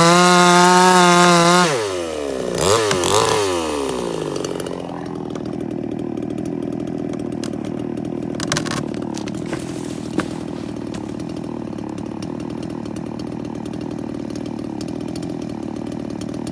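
Chainsaw engine running at full throttle, then dropping to idle about two seconds in. It is revved briefly twice, then idles steadily, with a couple of light knocks partway through.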